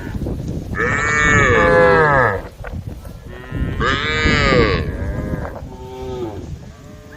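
Cows mooing: two loud, long moos, the first about a second in and the second near four seconds, followed by fainter, shorter moos from others in the herd.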